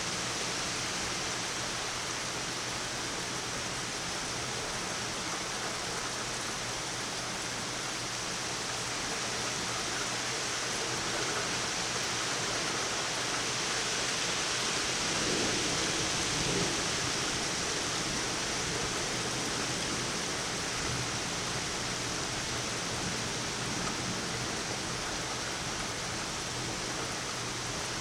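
Heavy thunderstorm rain pouring steadily, an even hiss that swells slightly about halfway through.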